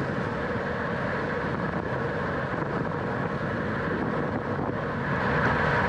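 Steady wind rush over the microphone of a camera mounted on a racing bicycle, mixed with tyre and drivetrain noise while riding at speed.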